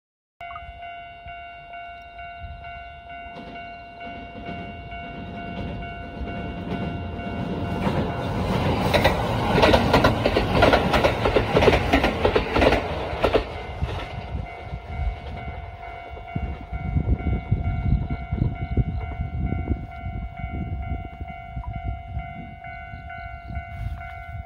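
A train running past on the rails, its rumble and clatter building to a loud peak about nine seconds in and easing off after about fourteen seconds. A steady electronic-sounding tone rings throughout at an unchanging pitch.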